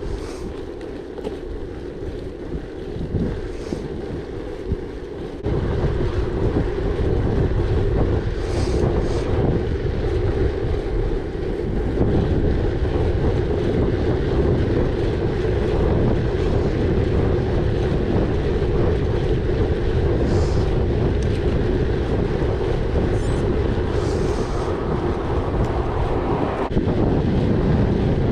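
Wind buffeting the microphone over the steady rolling noise of a gravel bike's tyres on a gravel track. The low rumble grows louder about five seconds in and stays up.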